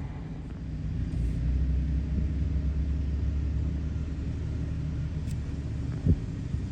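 Steady low rumble of a vehicle running, growing louder about a second in, with one short knock near the end.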